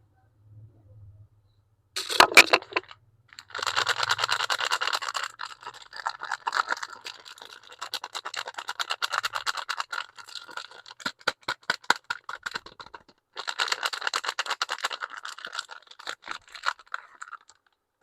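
Soap packaging being unwrapped by hand: paper or plastic wrapping crinkling and crackling in bursts, with many quick clicks. There is a sharp loud rustle about two seconds in.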